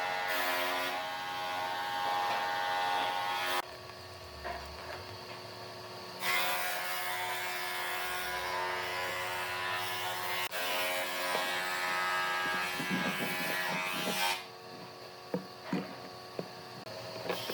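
Power tool motor running on wood in two long runs of several seconds, with a sudden stop between them; the quieter stretches between runs hold a few light knocks.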